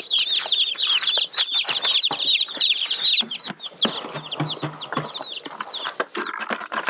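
A crowd of Cornish Cross chicks peeping: many short, high, falling-pitched cheeps overlapping in a dense chorus, with scratching and rustling in pine shavings.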